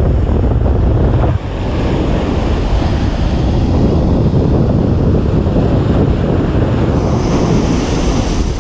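Ocean surf breaking and washing up a beach, a continuous loud rush of water with wind buffeting the microphone. A deep rumble eases about a second and a half in, then the hiss of the wash swells and brightens near the end.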